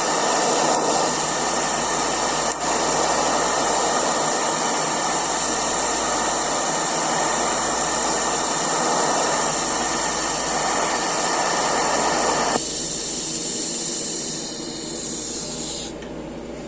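Eastwood TIG 200 welding arc running steadily with a loud hiss as filler rod is fed in. It cuts off abruptly about three-quarters of the way through, and a fainter high hiss carries on a few seconds more before stopping near the end.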